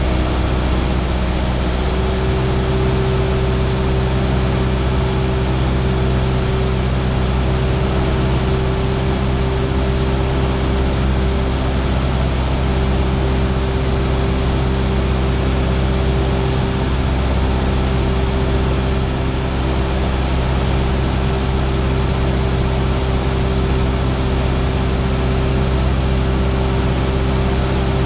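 Cessna 172R's four-cylinder Lycoming engine and propeller droning steadily in cruise, heard inside the cabin, with a loud steady hiss of airflow over it.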